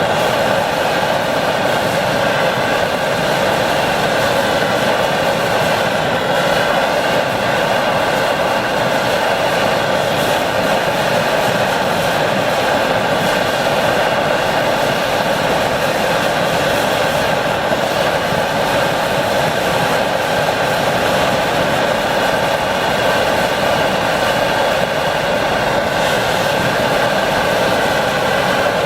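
Phoebus 725 pressure stove burner roaring steadily at full flame during a burn test.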